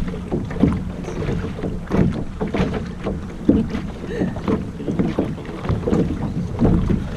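Water lapping and splashing irregularly against the hull of a small sailboat under way, with wind rumbling on the microphone.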